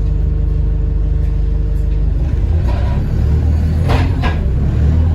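Diesel bus engine, one with a bad turbo leak, running steadily and then picking up and rising in pitch as the bus pulls away under hard throttle. Three short hisses come in the second half.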